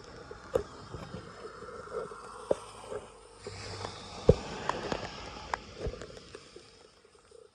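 Rushing floodwater with scattered sharp knocks and clicks; the water sound fades out near the end.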